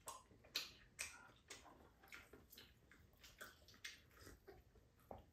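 Faint chewing and lip-smacking as a hotteok, a sweet filled pancake, is eaten: a string of small wet clicks, about two or three a second.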